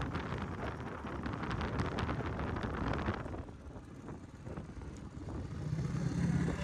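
Wind buffeting the microphone over a low rumble, easing after about three seconds. Near the end a dirt bike's engine comes in with a steady low hum.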